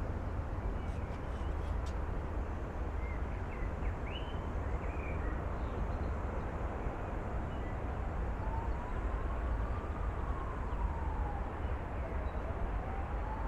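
Steady low city rumble heard from above, with a few short bird chirps in the first half. From about eight seconds in, an emergency siren wails slowly up and down.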